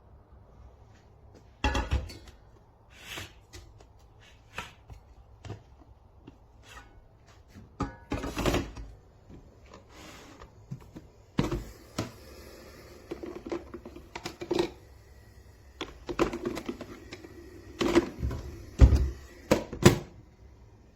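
Irregular clunks, knocks and clatters of hard objects being handled, about a dozen separate hits with the loudest clustered near the end.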